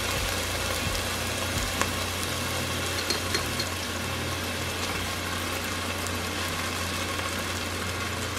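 Chopped onion and minced garlic sizzling steadily in olive oil in a pot, stirred with a silicone spatula, with a few faint ticks against the pot and a low steady hum underneath.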